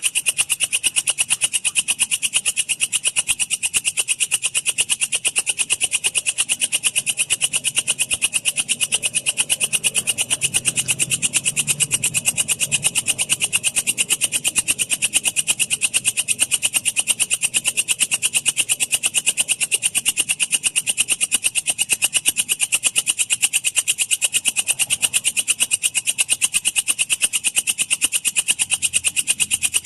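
Walang kecek insect singing a steady, rapid train of evenly spaced, high-pitched chirps, the clear song used as a master recording for lovebirds to copy.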